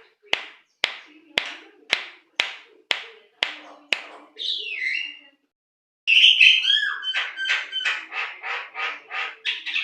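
Javan myna calling: a run of sharp clicking rattles about two a second, a short whistle, then after a brief pause a loud whistled phrase that breaks into faster clicking chatter.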